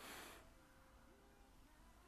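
A short, sharp sniff of air drawn in through the nose, topping up a held breath, then near silence as the breath is held.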